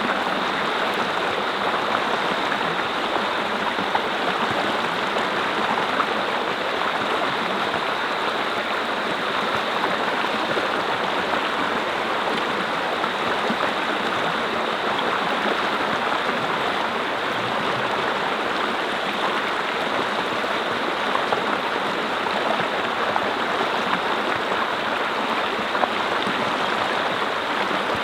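Mountain stream rushing and splashing over rocks, a steady, even flow with no change.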